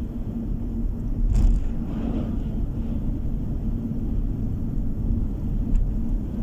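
Car driving on the road, heard from inside the cabin: steady low road and engine rumble with a faint steady hum, and a brief knock about a second and a half in.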